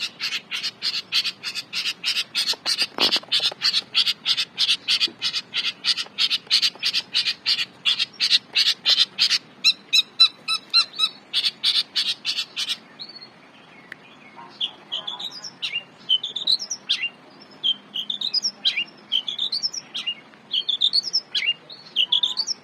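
Long-tailed shrike singing: a fast run of harsh, evenly repeated chattering notes, about three a second, that stops abruptly about 13 seconds in. Softer, varied phrases of quick rising slurred whistles follow.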